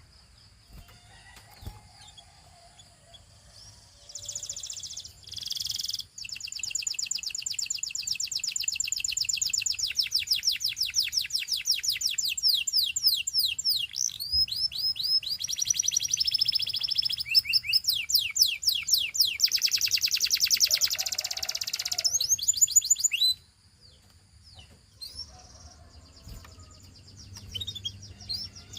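Canary singing in long rapid trills of quickly repeated sweeping notes, changing from one trill to the next. The song starts about four seconds in, cuts off suddenly about 23 seconds in, leaving a few faint notes, and starts again at the end.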